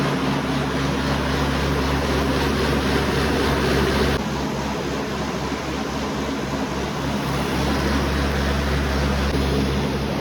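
Eicher diesel engine running steadily while driving a Lubi water pump. The sound turns abruptly duller about four seconds in.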